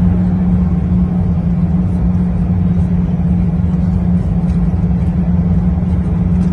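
Steady cabin noise of an Airbus A380 in motion: a low rumble of engines and airflow with a steady hum.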